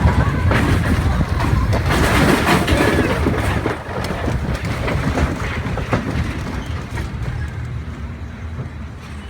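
Mine-train roller coaster rumbling and clattering along its track, heard from on board; the noise gradually dies down.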